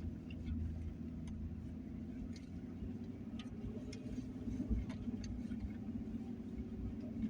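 Ford F150 pickup truck running steadily at low speed, a constant engine hum with road rumble and scattered light ticks.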